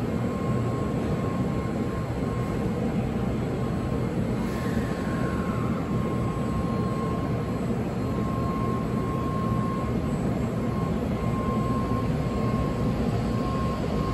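N700-series Shinkansen train moving slowly alongside the station platform: a steady dense rumble with a steady high tone over it, and a whine that falls in pitch about four and a half seconds in.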